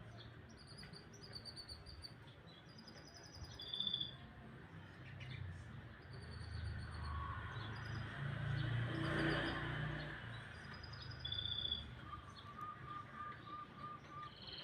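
Canary singing in short, high chirps and trills, with a quick run of even repeated notes near the end. A low background rumble swells and fades around the middle.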